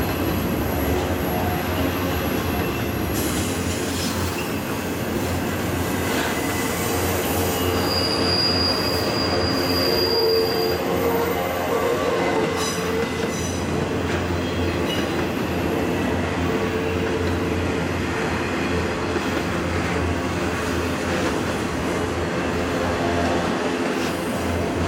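Freight train cars carrying highway trailers rolling past on a curve: a steady rumble of wheels on rail, with a thin, high wheel squeal for a few seconds about a third of the way in.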